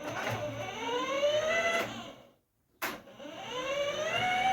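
Small electric motor of a toy car whining as it spins up, twice: each run rises steadily in pitch, with a short break of about half a second between them.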